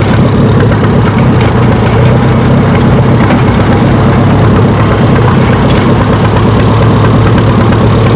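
Antique pulling tractor's engine running steadily at idle close by, a constant low engine note.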